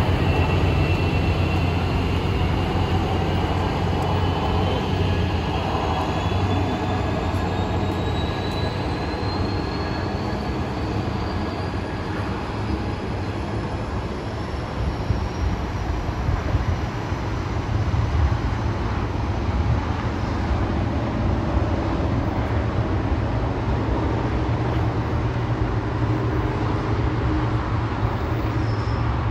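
Passenger train pulling out and moving away along the track: a steady low rumble of wheels and engine, with a faint whine that rises in pitch over the first dozen seconds as it gathers speed.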